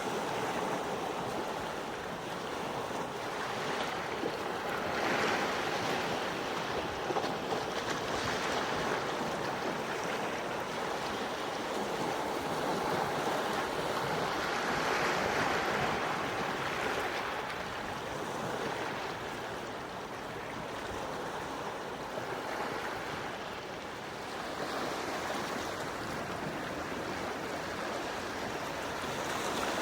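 Gentle sea waves washing in, a steady hiss of surf that swells and eases every few seconds.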